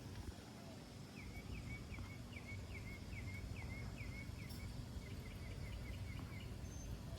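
A songbird singing a series of short down-slurred chirps, about two a second, quickening into a faster run near the end, over a steady low outdoor rumble.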